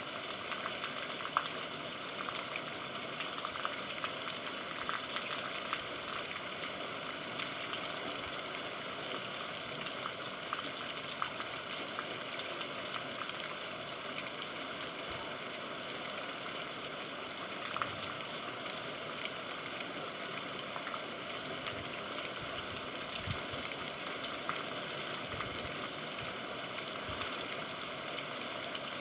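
Steady rain falling: an even hiss with scattered drop ticks throughout.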